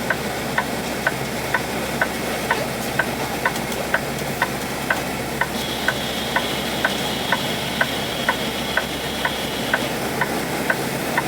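Truck cab with the engine running, and a turn-signal indicator clicking steadily about twice a second. A thin, high steady tone sounds for about four seconds from about halfway through.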